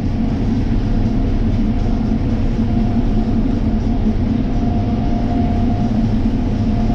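Combine harvester running while harvesting corn: a steady, loud low drone with a constant hum.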